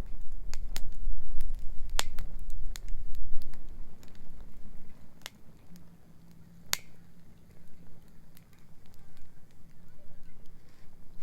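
Wood bonfire crackling, with sharp pops at irregular intervals, the loudest about two seconds in and again past halfway. A low rumble sits under the first half and then eases off.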